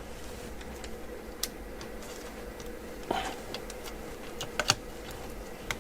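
Light clicks and taps of small laptop parts and tools being handled during disassembly, a few scattered sharp ticks with a slightly fuller knock about three seconds in, over a faint steady electrical hum.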